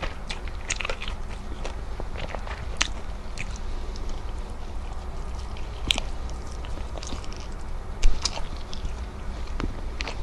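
Close-miked chewing and biting of fried salmon, with many small wet mouth clicks and crackles, over a steady low hum. A louder low thump comes about eight seconds in.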